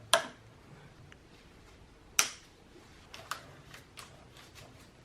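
A few sharp clicks and taps from hands working on parts and tools: two louder clicks about two seconds apart, then a quick run of lighter ticks.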